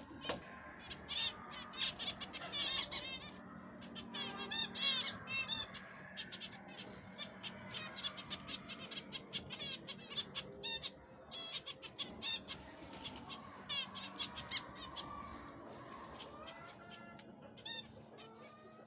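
A flock of aviary birds chirping and calling, with many quick high chirps overlapping, over a faint steady hum.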